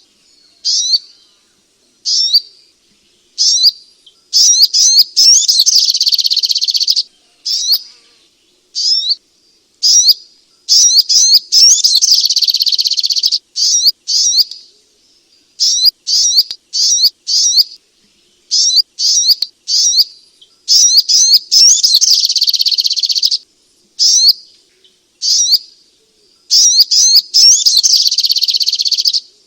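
Sogok ontong (spiderhunter) song: sharp high chirps, singly or in short clusters, alternating with dense chattering runs of two to three seconds, about four of them. It is a loud, continuous recording used as a lure to set a silent caged bird singing.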